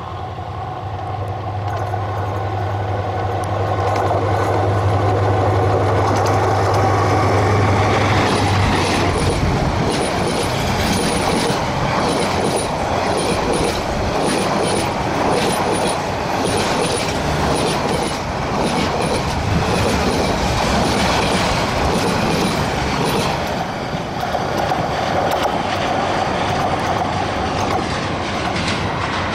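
A metre-gauge diesel-hauled passenger train passing close by. The EMD GT18LA-2 locomotive's engine gives a steady low drone for the first eight seconds or so. Then the coaches roll past with a dense rumble, wheels clattering over rail joints and brief high squeals from the wheels.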